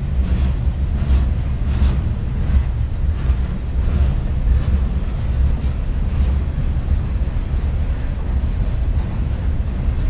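Freight train rolling past, a steady low rumble with wind buffeting the microphone.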